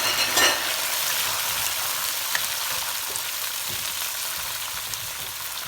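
Shrimp and garlic sizzling in hot olive oil in a frying pan, a steady hiss that surges louder just after the start and eases slightly after, with a few faint clicks.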